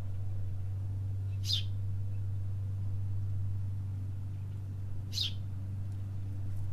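Two short, high bird chirps about three and a half seconds apart, over a steady low hum.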